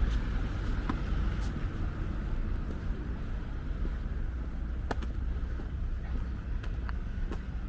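Steady low rumble of street traffic outdoors, with a few scattered light clicks.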